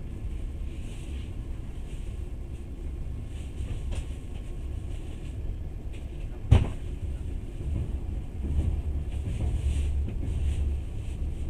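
Passenger train running: a steady low rumble of the carriage, heard from inside. One sharp knock sounds a little past halfway.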